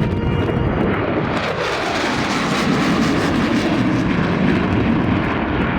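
F-4 Phantom II jet fighter's twin J79 turbojets on a high-speed pass. A whine drops in pitch as the jet goes by about a second and a half in, then loud jet noise carries on.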